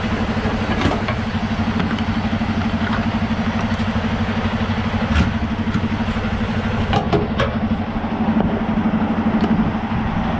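Semi truck's diesel engine idling steadily, with a few sharp clicks and knocks from the trailer air lines and electrical cord being hooked up, three of them close together about seven seconds in.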